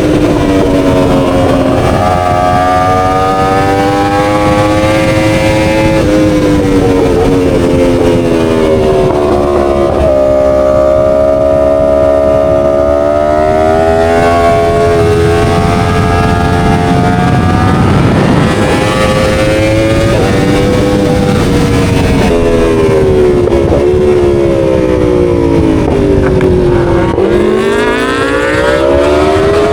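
Motorcycle engine under way, its pitch rising, holding and falling over several seconds at a time as the rider speeds up and eases off, dropping low near the end and then climbing again.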